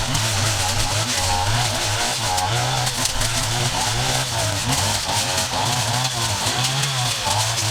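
Small petrol engines of yard-clearing equipment running, their pitch stepping up and down over and over.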